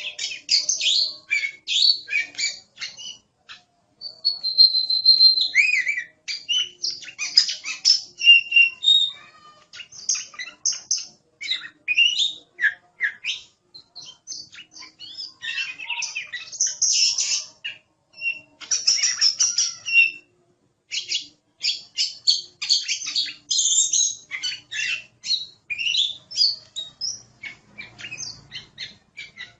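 Oriental magpie-robin singing a fast, varied run of whistles, chirps and harsh notes in long phrases with a few brief pauses.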